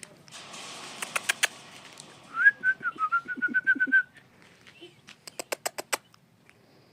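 A wavering whistle lasting about two seconds, with runs of sharp clicks before it and again near the end.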